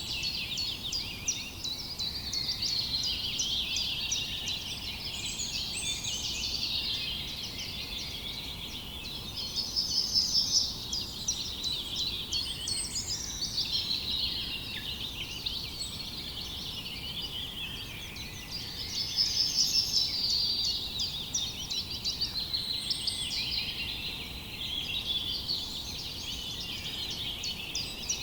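Dense chorus of songbirds chirping and trilling, many birds calling over one another without a break, louder for a moment about ten seconds in and again a little before twenty seconds.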